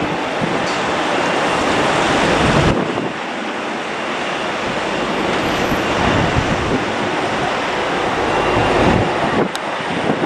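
Strong wind buffeting the microphone: a loud rushing roar that surges and drops in gusts.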